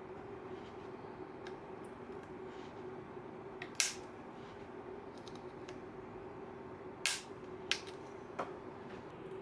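Upholstery work on a wooden chair frame: a few sharp, separate clicks or snaps, the loudest about four seconds in and about seven seconds in, with smaller ones after, over a steady low hum.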